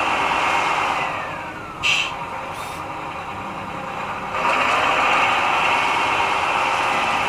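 R/C model truck's motor running, easing off with a falling whine about a second in. Two short clicks follow, then it comes back to full speed suddenly.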